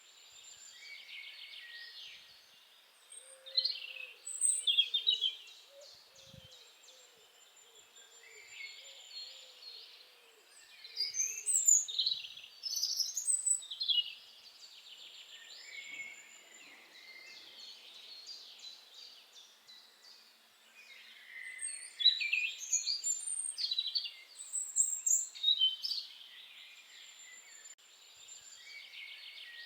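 Small birds chirping and trilling in high, rapid notes, with three louder bursts of calls.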